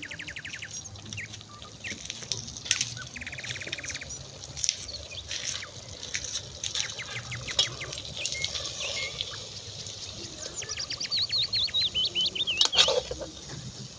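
Small birds chirping and calling, with quick rattling trills early on and a wavering warbled call near the end.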